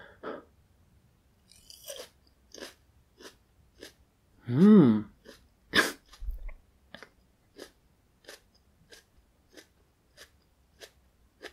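A person chewing a whole fresh super-hot chili pepper: soft, wet chewing clicks about twice a second. About halfway through comes a loud, short cough, set off by the pepper's juice spraying into the throat.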